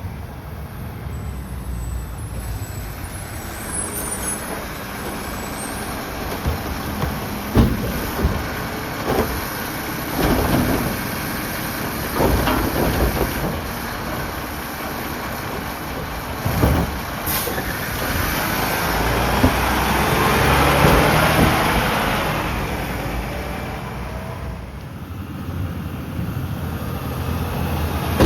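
Mack LR garbage truck with a New Way Sidewinder side-loader body at work: the diesel engine runs steadily under a series of sharp bangs and knocks from about 8 to 17 seconds in, then swells louder for a few seconds around two-thirds of the way through before settling again.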